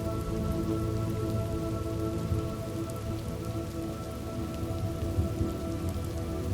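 Steady rain falling, with a low thunder rumble underneath and soft held tones of background music.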